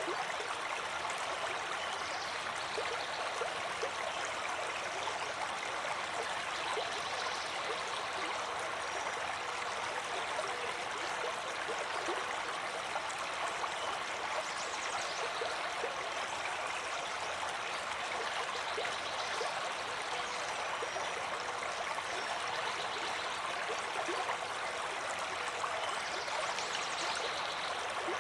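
Water flowing steadily in a stream, an even, unbroken rushing.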